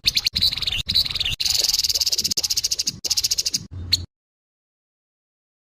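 Grey-headed babbler (tepus kepala abu) giving its harsh call: a fast, dry, high-pitched rattling chatter that cuts off suddenly about four seconds in.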